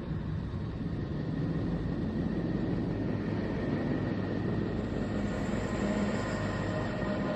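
Steady, even low rumbling drone with a faint high steady tone above it: a planet 'sound', a space sonification of spacecraft data rendered as audio.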